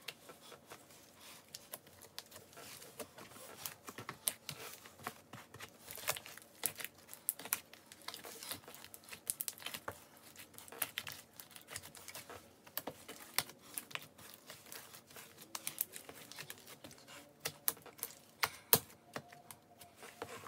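A large, bubbly batch of slime being kneaded and squeezed by hand, giving off many irregular sharp clicks and small pops.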